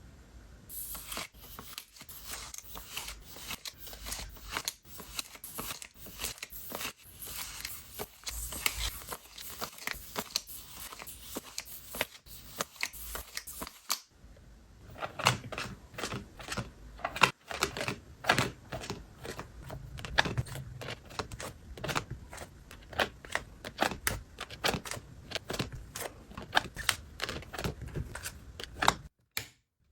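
Paper cards and plastic sleeves being handled and sorted: continuous crinkling and rustling with many light taps and clicks, broken by a short pause about halfway through.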